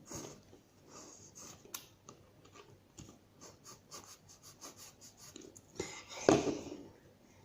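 Homemade glue slime being worked by hand: a run of short sticky clicks and squelches, with a louder rustling squish about six seconds in.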